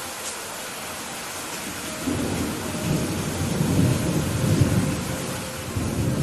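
Steady rain falling as a hiss, with a rolling thunder rumble that builds about two seconds in, peaks in the middle and eases off near the end.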